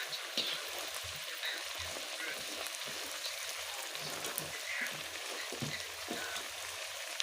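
Mandazi dough frying in hot oil: a steady sizzle with small crackles and pops.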